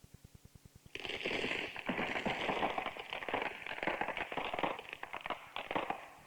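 A loud, dense crackling and rasping sound effect. It starts suddenly about a second in and fades near the end.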